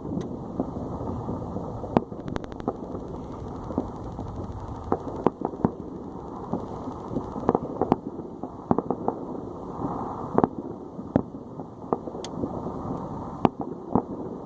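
Distant fireworks popping irregularly, many sharp cracks scattered over a steady low rumble of noise.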